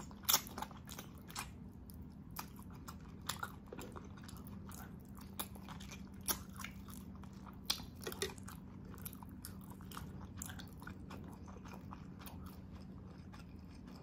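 Close-miked eating sounds: chewing and lip-smacking on braised oxtail adobo eaten by hand, with many short wet mouth clicks and smacks. A faint steady hum runs underneath.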